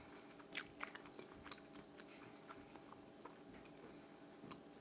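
Close-up chewing of a breadcrumb-coated fried chicken ball, with a few sharp clicks from the crisp crust in the first three seconds and softer mouth sounds after.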